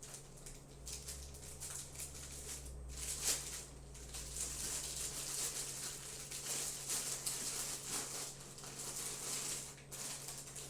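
Crinkling and rattling of a bag of chips being handled, in irregular bursts that stop abruptly near the end.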